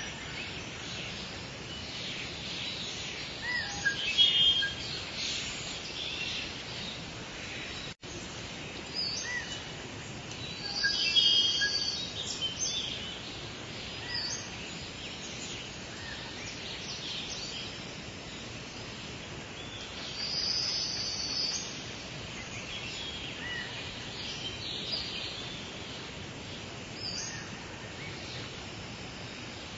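Steady soft rain with birds chirping and calling over it, the loudest bursts of calls about four, eleven and twenty-one seconds in. The sound cuts out for an instant about eight seconds in.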